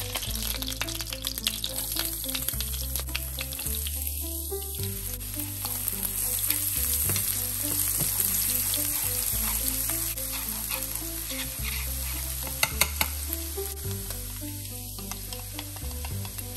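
Chopped garlic and shallots sizzling steadily in hot oil in a nonstick frying pan, with scattered clicks of the utensil stirring them against the pan, over background music with a low bass line.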